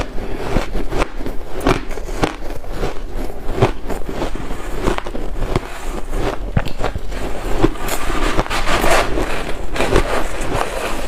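White ice being bitten and crunched between the teeth close to the microphone: a dense, irregular run of sharp cracks and crackles, busiest a little past the middle.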